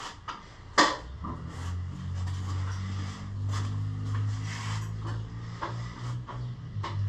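A sharp knock, then a low steady motor-like hum that starts about a second in and keeps running, with scattered clicks and rubbing of equipment over it.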